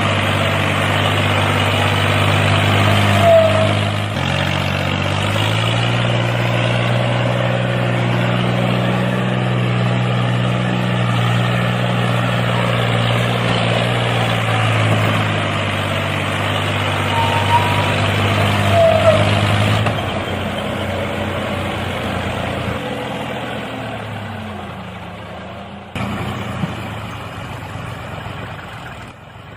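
A homemade mini tractor's small engine runs steadily, shifting pitch a few times, then slows and winds down near the end. Two short squeaks come through over it.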